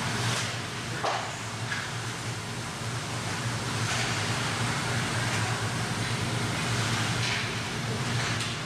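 Ice rink ambience during a hockey game: a steady low hum under a noisy wash, with several short hissing scrapes of skate blades on the ice and a sharp knock about a second in.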